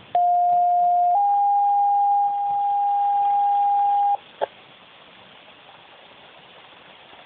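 Two-tone sequential pager alert over a fire/EMS dispatch radio, paging out a call. A steady tone lasts about a second, then a slightly higher tone is held for about three seconds and cuts off, followed by a short click and radio hiss.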